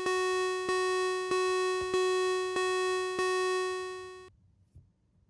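A synthesized chime-like note repeated on the same pitch, struck about one and a half times a second, stopping suddenly about four seconds in.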